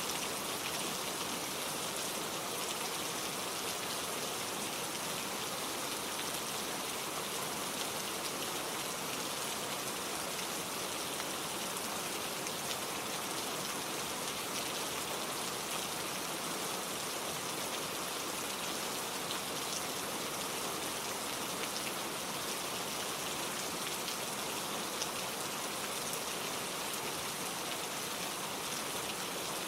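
Steady gentle rain falling, an even patter of drops with no thunder.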